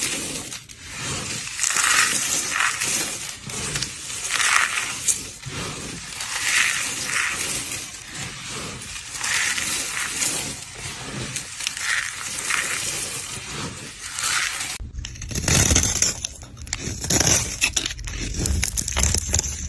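Dry Ivory soap being crushed, the crumbly pieces crackling and crunching continuously. About fifteen seconds in it changes to a deeper, heavier crunching.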